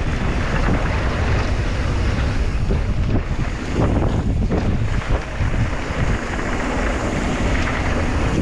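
Wind buffeting the camera microphone, a loud, steady rush with a heavy low rumble.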